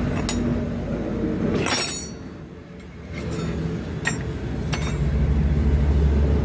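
Sharp metallic clinks of steel pieces knocking together, one ringing out clearly about two seconds in, over a low steady mechanical hum that grows louder near the end.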